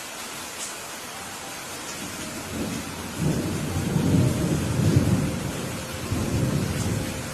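Steady rain falling, with a low rolling rumble of thunder that swells about a third of the way in and dies away near the end.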